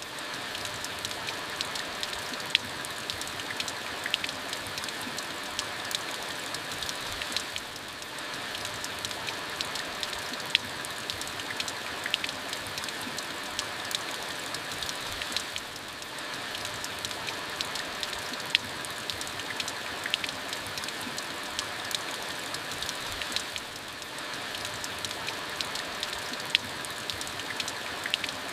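Steady rain falling on surfaces, with many separate drops ticking sharply through the hiss. The level dips briefly about every eight seconds.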